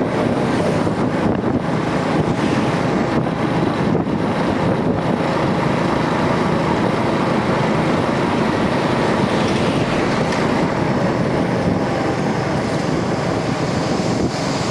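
Rusi DL125 motorcycle being ridden, its engine and road noise steady throughout, with wind buffeting the microphone.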